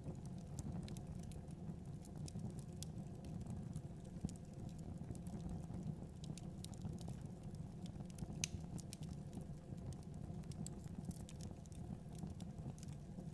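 Wood fire burning in a fireplace: a steady low rumble of flame with scattered sharp crackles and pops, one louder pop about eight seconds in.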